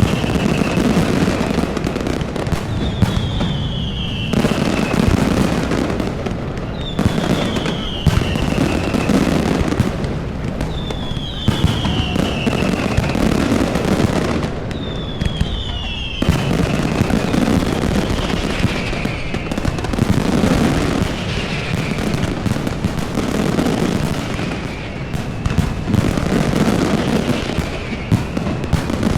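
Fireworks display: a dense, continuous run of bangs and crackling, with a high whistle falling in pitch repeating every three to four seconds, fainter near the end.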